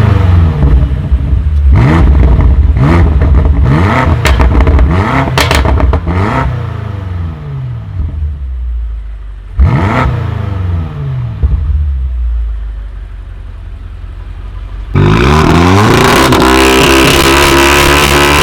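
Tuned car engine being revved hard in about six sharp blips, each climbing then dropping back toward idle, with exhaust pops and crackles among the blips. About 15 s in, an engine climbs and is held steady at high revs.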